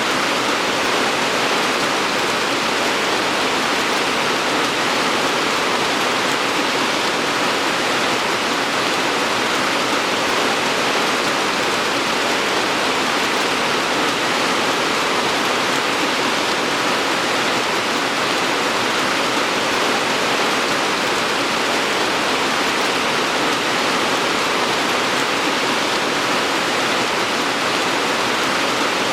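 Steady rain falling, an even hiss that holds constant, with no single drops, thunder or other events standing out.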